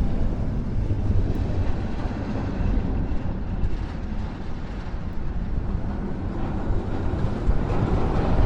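The Big One steel roller coaster's train rumbling along its track on a test run, with a rickety rattle that grows louder near the end. Strong wind buffets the microphone.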